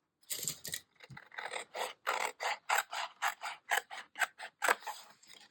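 Scissors cutting paper: a quick run of short snips, about four a second, as leftover pictures are cut out.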